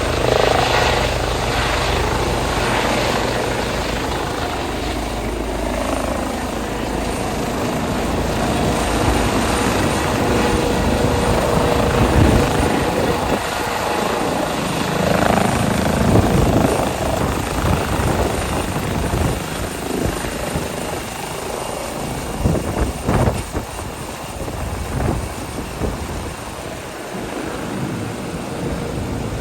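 Airbus EC135 twin-turbine helicopter taking off, its turbines and rotors running loud and steady with a rough, fluctuating rotor noise, easing off somewhat over the last several seconds.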